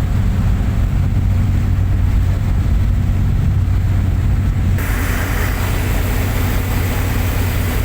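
Engines of a fast boat under way: a steady, loud low drone. About five seconds in, a rushing hiss of wind and water comes up suddenly over it.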